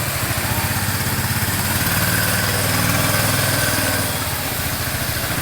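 Small motorboat engine running steadily at a low, even pace, growing slightly louder midway and then easing back.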